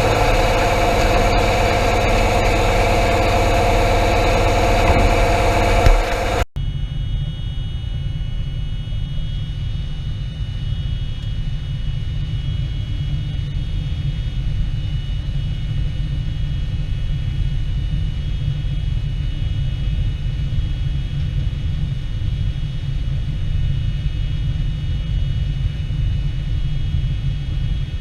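Combine harvester running, with an engine and machinery hum carrying several steady tones. After a sudden cut about six seconds in, it gives way to a lower, even rumble with a faint high whine.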